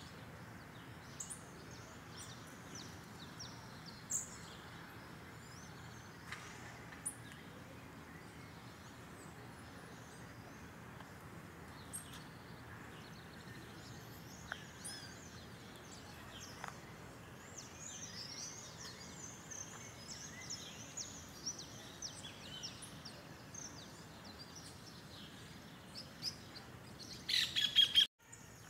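Small birds chirping and calling in the trees over a steady outdoor hiss. The chirping grows busier past the middle, with a few louder calls near the end.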